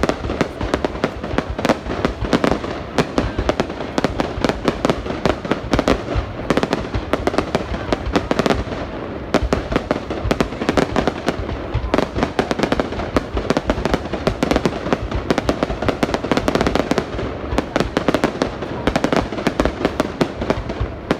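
New Year's Eve fireworks going off nonstop: a dense run of bangs and crackles, many each second.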